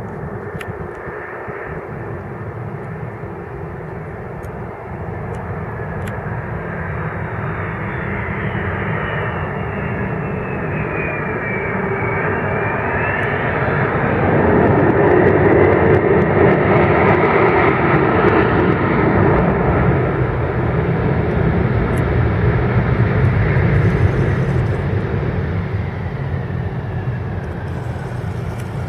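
Jet engines of an Airbus A300B4-622R freighter (twin Pratt & Whitney PW4158 turbofans) as the aircraft arrives, growing louder to be loudest from about halfway through, then easing slightly near the end. A whining tone slides down and then back up in the first half.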